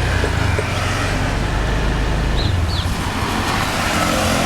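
Honda motorbike engine running while riding, its note shifting about half a second in and again about two and a half seconds in, with wind rushing over the microphone.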